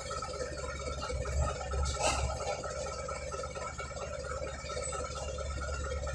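Bulldozer running with a steady hum and low rumble, with a brief louder noise about two seconds in.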